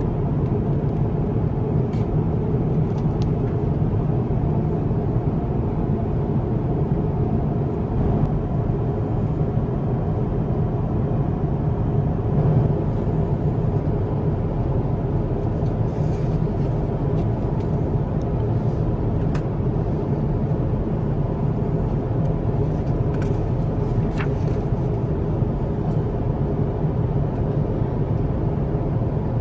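Steady cabin noise of an Airbus A350-1000 in flight: an even low rumble from the engines and airflow, with a few faint small clicks.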